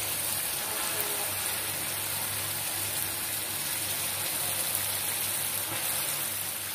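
Raw chicken pieces sizzling in hot oil and fried spice paste in a frying pan, a steady hiss, as the meat starts to sear in the masala.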